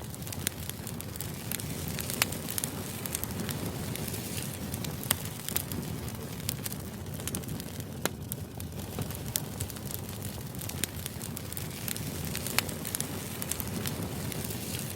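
Crackling fire: a steady low rush of flames with irregular sharp pops and snaps, used as background ambience.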